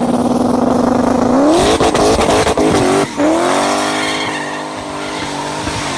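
Drag racing car's engine held at a steady rpm against the trans brake, then revving up sharply as it launches about a second and a half in. A brief drop in revs near three seconds is followed by the engine climbing again, growing gradually quieter toward the end.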